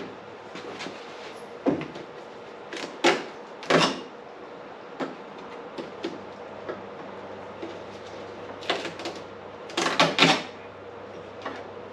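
Scattered knocks and clatters of things being handled, the loudest in clusters about three to four seconds in and about ten seconds in, over a steady faint hum.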